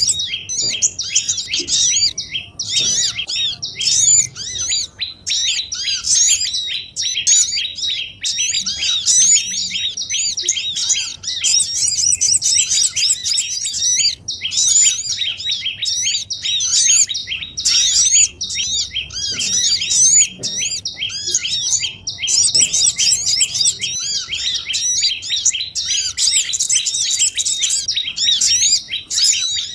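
Bird-lure recording of small songbirds: a dense, excited chorus of rapid high chirps and twitters repeating with only brief gaps, played to draw small wild birds such as sogon, prenjak and korlap.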